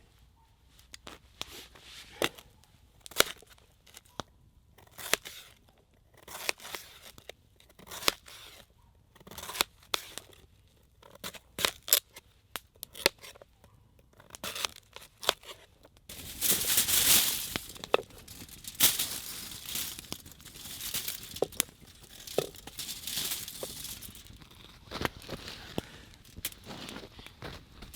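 Campfire crackling with sharp, irregular pops. About halfway through, a louder hiss full of crackles sets in, strongest for a few seconds and then easing: steak starting to sizzle on a grill over the fire.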